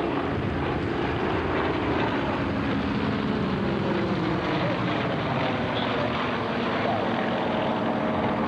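Yak-50 aerobatic aircraft flying a display, their piston engines and propellers running loud and steady, with the engine pitch sliding lower about halfway through.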